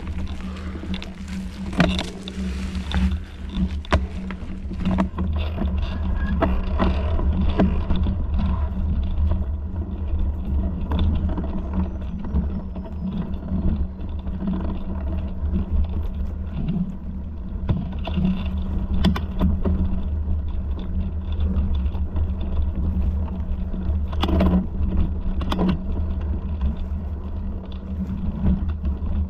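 Steady low rumble with a constant hum, broken by frequent sharp clicks and rattles, like a camera jolting as it is carried or ridden along a rough trail.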